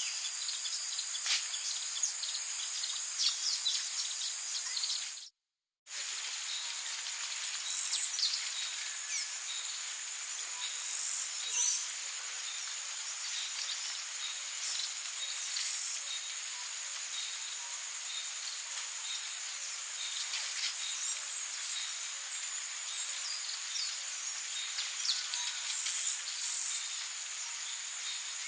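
Rainforest ambience: a steady, high insect drone over a hiss of rain, with short bird calls every few seconds. The whole sound cuts out completely for about half a second some five seconds in, then comes back.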